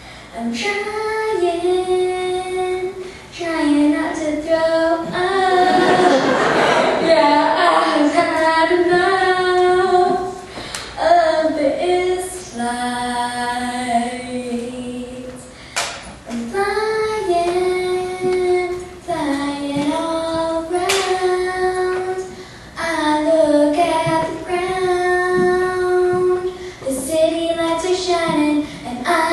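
A girl singing solo, holding long notes that step up and down in pitch.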